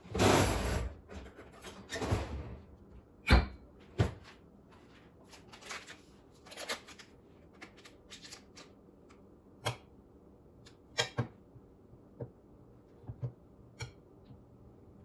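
Kitchen handling sounds while butter is got out to butter buns: a loud rustle of packaging, two sharp knocks of something set down on the counter a few seconds in, then scattered light clicks and taps.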